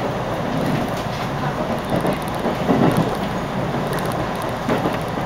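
Running noise of a JR Chuo Line rapid electric train heard from inside the carriage: a steady rumble of steel wheels on rail at speed, with a few sharper clacks, the loudest about three seconds in.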